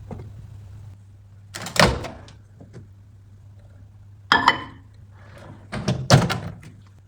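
Microwave oven: its low hum cuts off about a second in, then the door clunks, with sharp knocks about two seconds in, midway, and a cluster near the end.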